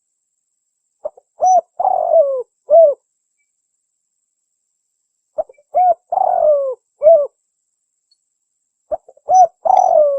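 Spotted dove (tekukur) song: three phrases of soft cooing about four seconds apart. Each phrase is a couple of short coos, a longer coo that slides down in pitch, and a closing coo.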